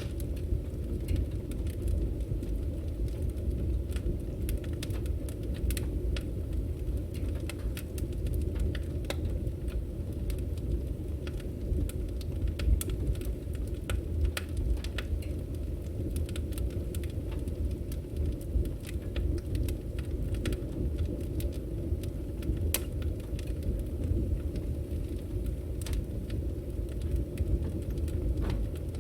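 Firewood burning: a steady low rumble of the fire with many small, sharp crackles and pops from the logs scattered throughout.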